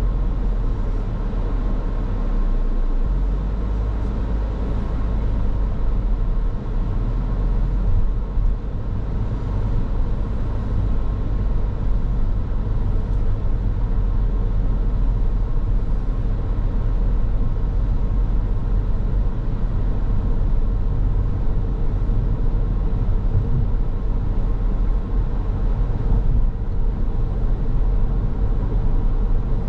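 A car driving along a road: steady engine and tyre rumble, with no speech or music.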